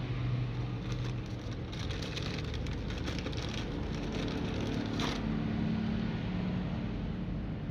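A vehicle engine running steadily at idle, a continuous low hum, with a brief spell of faint clicking partway through.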